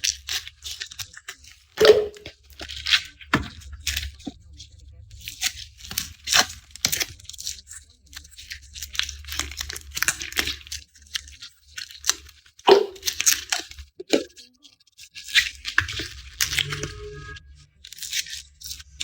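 Garlic being peeled by hand: papery skins tearing and crackling in short crisp strokes, with a couple of sharper cracks as cloves are split from the bulb. A low steady hum sits underneath.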